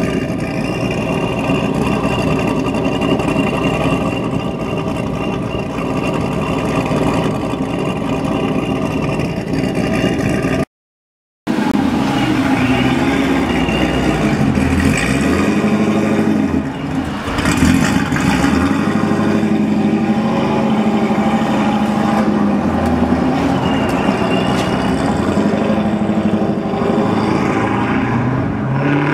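Exhaust note of a 1998 Chevrolet Corvette C5's supercharged V8, fitted with a hot cam, headers and a Corsa exhaust. The engine runs at a fairly steady speed at first, then after a brief cut in the audio about eleven seconds in it revs up and down several times, climbing again near the end.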